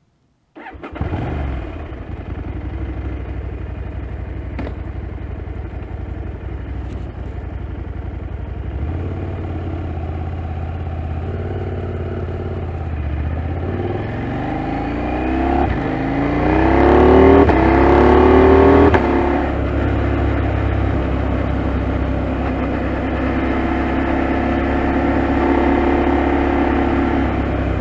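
2022 KTM 890 Adventure's parallel-twin engine, coming in suddenly near the start and running at a low steady speed. From about 14 to 19 seconds in it revs up in rising sweeps, accelerating through the gears, at its loudest. It then settles into a steady cruising note.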